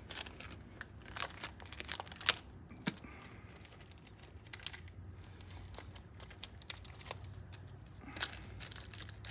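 Packaging crinkling and tearing as the new piston kit's pin clips are taken out, with scattered light crackles and clicks.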